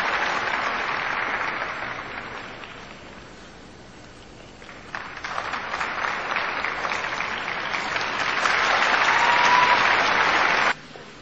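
Arena crowd applauding, dying down a few seconds in, then swelling again louder before cutting off abruptly near the end.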